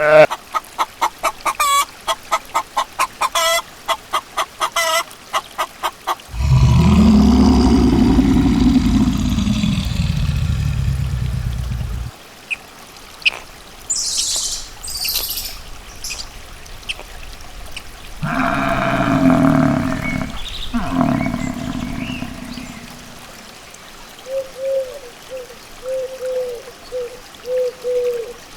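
A run of different animal calls one after another: a rapid series of short calls, then a long loud low call, then brief high calls, another long call, and repeated short chirps near the end.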